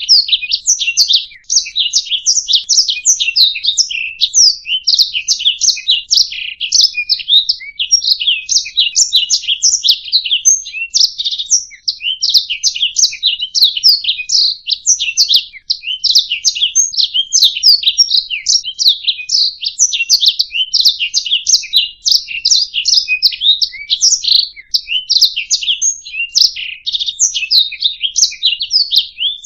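Domestic canary singing a long, unbroken song of rapid high chirps and trills.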